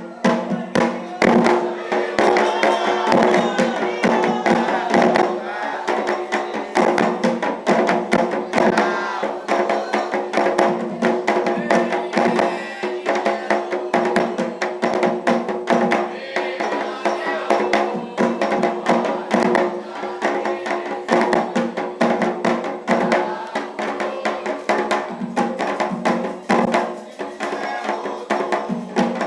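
Candomblé ritual music: atabaque hand drums beating a fast, steady rhythm under a group singing a chant for Xangô.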